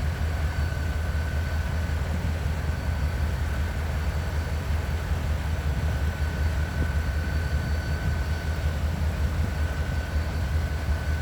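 Diesel locomotive idling: a steady low rumble with a thin, steady high whine over it.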